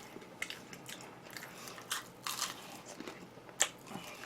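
A person chewing and biting crunchy food, a string of irregular crisp crunches, the sharpest about three and a half seconds in.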